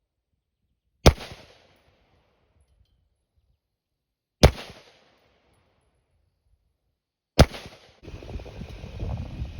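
Three single rifle shots from a Ruger AR-556 in 5.56, about three seconds apart, each with a short echoing tail. Near the end a steady rumbling noise sets in.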